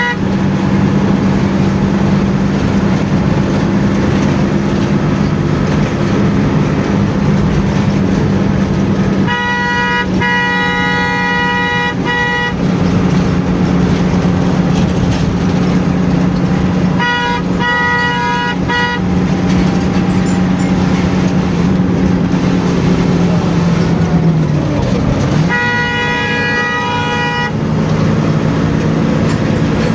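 Bus engine running steadily at highway speed with road noise, cut by long vehicle-horn blasts: a short one at the start, then three of two to three seconds each. The engine note dips briefly and recovers just before the last blast.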